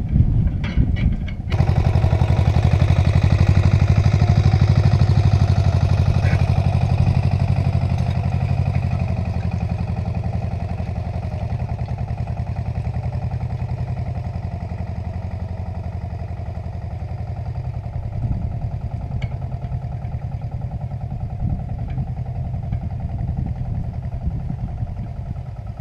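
Agria 8900 articulated tractor's engine running steadily with a mechanical clatter. About a second and a half in the sound jumps up sharply, then slowly eases off.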